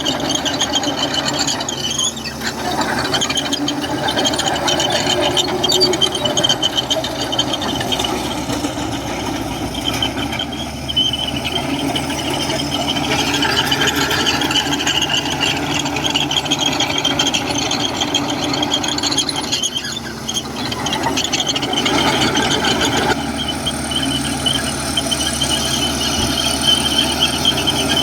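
Komatsu crawler bulldozer working, its diesel engine running steadily under load with a high-pitched squeal and whine from the machine that rises and falls in strength several times.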